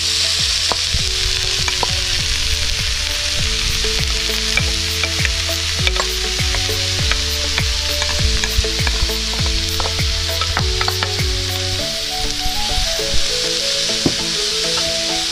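Grated carrots sizzling in hot oil in a non-stick frying pan, with the clicks and scrapes of a wooden spatula pushing and stirring them through.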